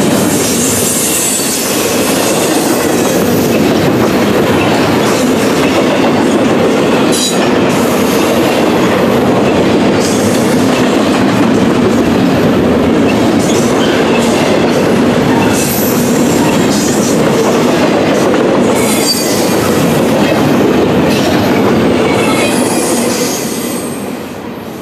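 Double-stack intermodal well cars rolling past close by: a loud, steady wheel-on-rail rumble with clattering and brief high wheel squeals now and then. The sound fades away near the end as the last car goes by.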